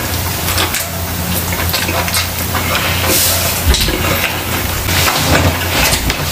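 Close-miked chewing: wet, crackly mouth sounds of a person eating meat by hand, with many small clicks. A steady low hum runs underneath.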